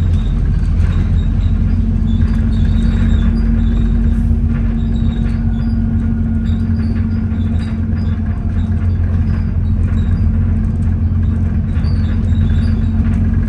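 Inside an Alexander Dennis Enviro400 double-decker bus under way: a steady low engine and driveline drone with a constant hum over it.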